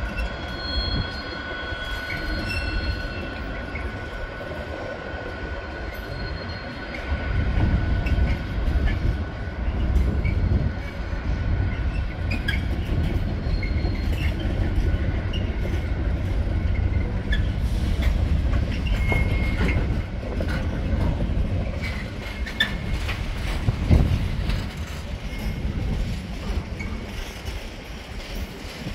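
Train running through the station: a steady low rumble of wheels on rail, with thin high wheel-squeal tones in the first few seconds and clicks over rail joints. There is a sharp knock near the end.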